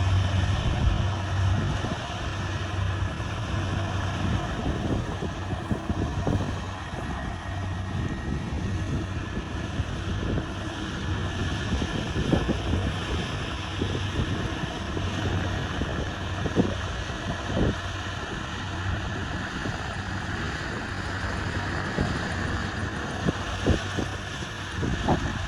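Kubota rice combine harvester's engine running steadily, with a few short knocks and clatters from the machine.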